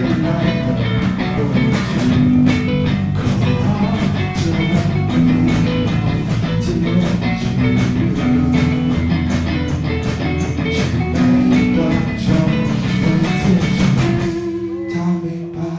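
A live rock band playing an instrumental passage: electric guitar, bass and drum kit. Near the end the drums and full band drop away, leaving a held guitar note.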